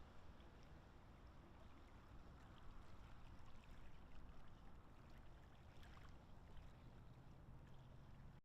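Near silence: faint outdoor background with a steady low rumble and a few faint ticks about six seconds in.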